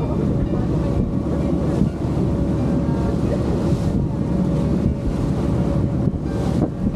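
Motorboat running fast on open water: a steady engine drone with a faint constant whine, mixed with water rushing past the hull and wind buffeting the microphone.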